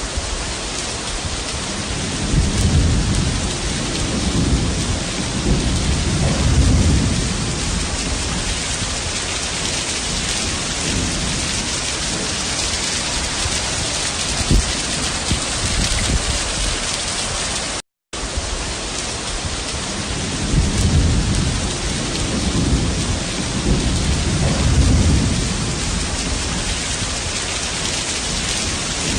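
Heavy rain falling steadily, with low rolls of thunder rumbling about two seconds in and again after the sound drops out for a moment just past halfway.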